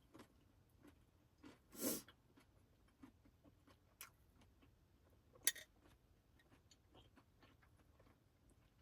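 Quiet handling sounds: scattered small clicks and taps, a brief rustle about two seconds in, and a sharp click a little after five seconds.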